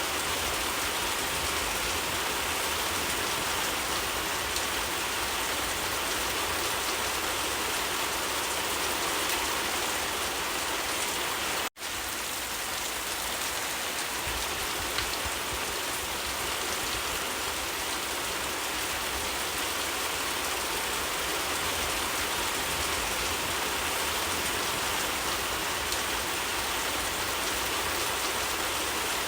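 Steady, dense rainfall, an even hiss of falling rain. It cuts out for an instant about halfway through, then carries on unchanged.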